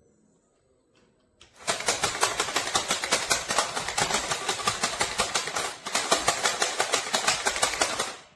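Small electric motor and plastic gearbox of a remote-controlled spider monster truck toy running, with a rapid, even clicking. It starts about a second and a half in, dips briefly about six seconds in and stops just before the end.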